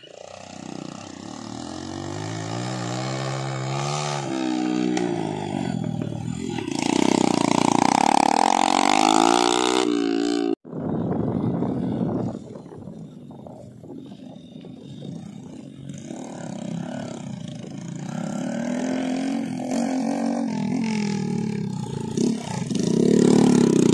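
Small motorcycle engine revving up and down as the bike hauls heavy sacks of unhulled rice. The sound breaks off suddenly about ten seconds in, then picks up again and grows loudest near the end as a bike comes close.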